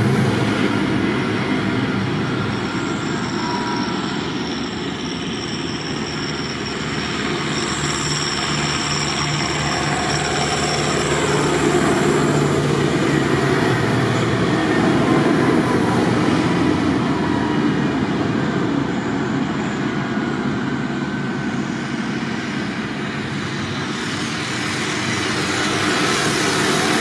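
Tractor engines running steadily as the tractors drive along, a continuous rumble that swells and eases a little.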